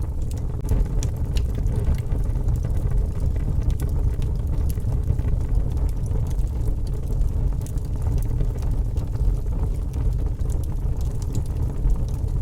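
Wood fire crackling: scattered sharp pops and snaps, several a second, over a steady low rumble.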